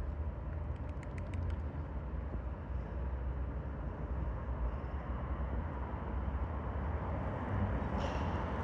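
Street ambience: a steady low rumble of road traffic with an even background noise, and a few faint ticks about a second in.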